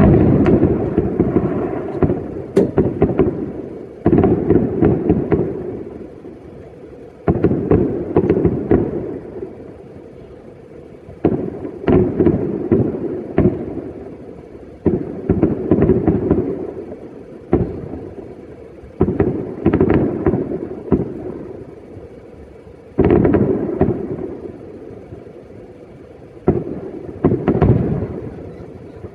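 New Year aerial fireworks going off in a steady series: a loud boom every three to four seconds, each followed by crackling pops that fade over a couple of seconds.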